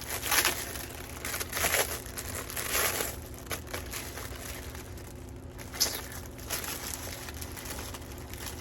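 Tissue paper being handled, crinkling and rustling in irregular bursts through the first three seconds, with one more short rustle about six seconds in.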